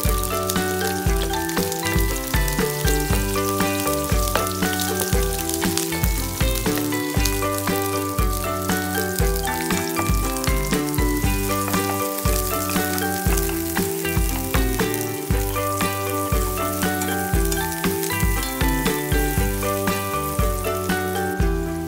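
Red onion rings sizzling and crackling as they fry in oil in a pan, stirred with a wooden spatula, under background music with a steady beat.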